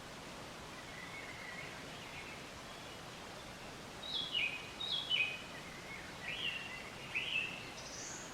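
Outdoor background hiss with a bird calling: about halfway through come four short high phrases, the first two stepping down in pitch and the next two rising and falling.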